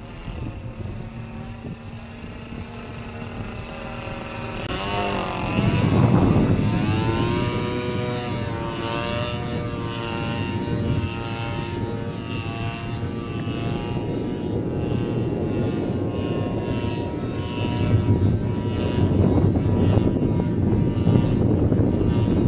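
Turnigy 30cc two-stroke gasoline engine of a radio-controlled Yak-54 model airplane in flight. Its pitch swings up and down as the plane manoeuvres, then holds fairly steady. It grows louder about six seconds in and again near the end.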